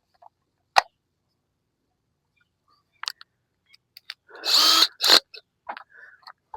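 Power drill boring briefly into the plastic wall of a five-gallon bucket, enlarging the hole for a poultry watering cup. It runs for just under a second about four and a half seconds in, then again briefly, with a few sharp clicks and knocks around the bursts.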